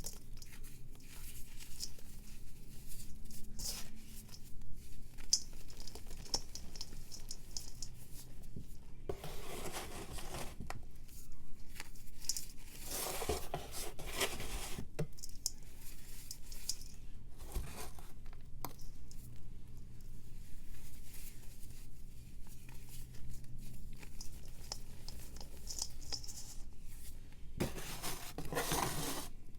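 Reformed blocks of pressed powder being crumbled and shaved by hand: fine dry crackling and scraping, with three longer, denser crunching passages, about a third in, in the middle and near the end.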